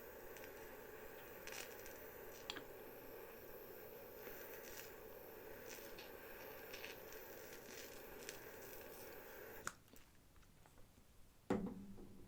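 Close-miked ASMR eating of sushi rolls: soft wet mouth clicks and squishes over a steady hiss, then one sudden louder bite about a second before the end.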